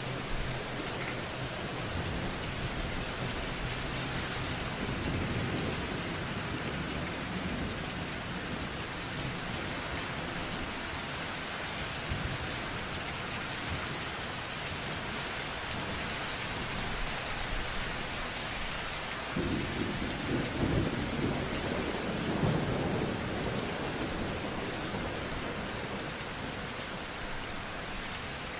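Steady heavy rain with thunder rumbling twice, the second roll starting suddenly a little over two-thirds of the way in and louder.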